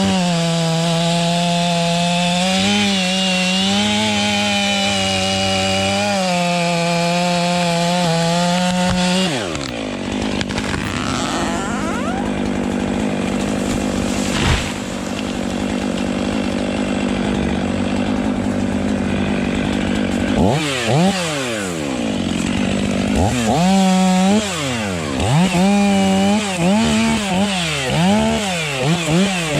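Chainsaw engine running at high revs under load in a cut. About nine seconds in the revs drop away. In the last third it is revved up and down again and again.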